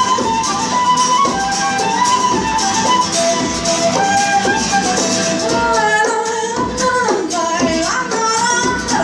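Live folk-style band playing a passage without words: a melody line that slides between notes over a quick, steady high percussion rhythm.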